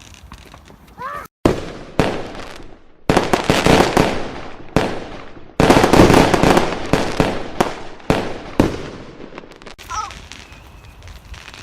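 Fireworks going off in a home display: a dense run of crackling and sharp pops that starts suddenly about a second in. It grows louder a few seconds in, is loudest about halfway through, and thins out near the end.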